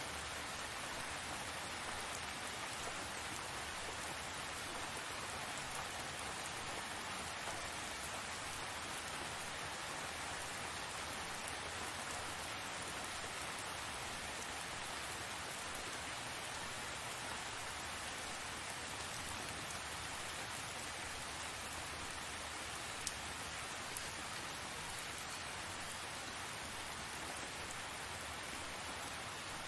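Steady tropical rain falling on surfaces, an even dense hiss, with a couple of single louder drop taps about three-quarters of the way through.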